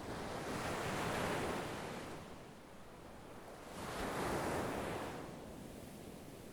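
Sea waves washing ashore: two waves, each swelling up in a rush of surf and then receding, about three seconds apart.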